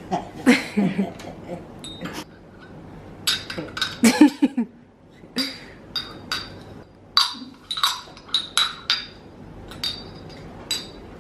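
Tableware clinking: about fifteen sharp clinks with a bright ring, scattered unevenly, with a little voice-like sound mixed in.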